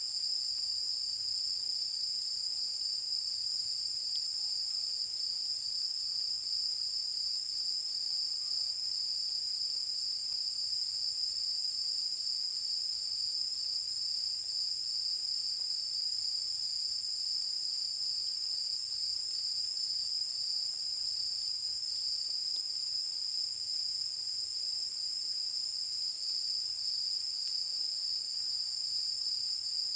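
Chorus of crickets and other insects calling at night, a steady unbroken high-pitched trill.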